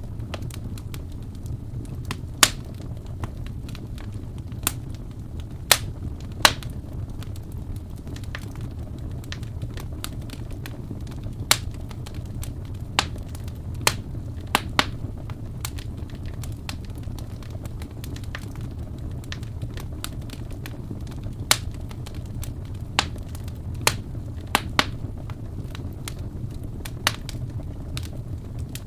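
Wood fire burning with a steady low rumble and sharp, irregular crackles and pops, a few of them louder.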